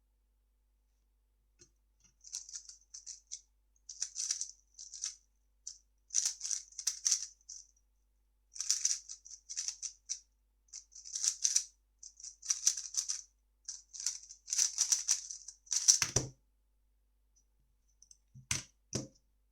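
A 3x3 speedcube being turned rapidly, a fast run of plastic clicking and rattling that stops with a thump about sixteen seconds in, then two more knocks near the end.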